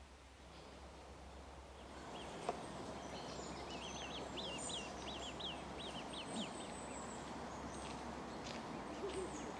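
Outdoor background with a bird giving a quick run of about ten short, high chirps, starting about four seconds in. There is a single sharp click a little earlier.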